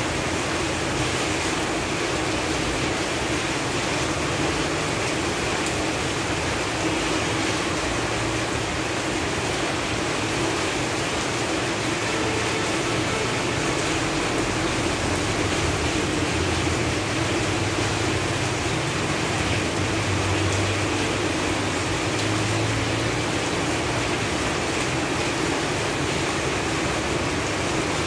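Steady rain falling on leaves and foliage, an even hiss of many drops with no single drop or gust standing out.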